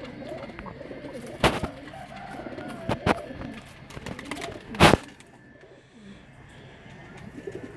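Domestic pigeons cooing, with three sharp thumps about a second and a half apart, the last and loudest about five seconds in.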